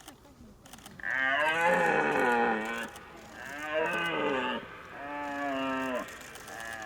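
Red deer stag roaring in the rut: three long roars, the first the loudest and longest, with a fainter fourth beginning near the end.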